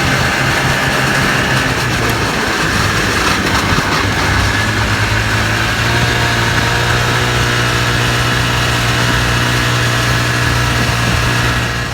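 Ski-Doo Formula Plus snowmobile's two-stroke engine running steadily while riding, with a small shift in pitch about two seconds in.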